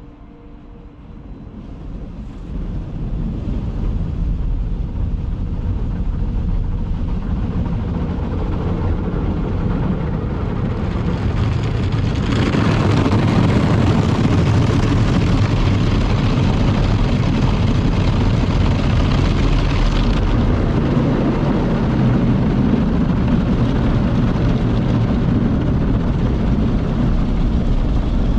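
Daifuku TWINFECT FORCE automatic gantry car wash running, a steady mechanical rumble that swells over the first few seconds. A louder hiss joins it from about twelve to twenty seconds in.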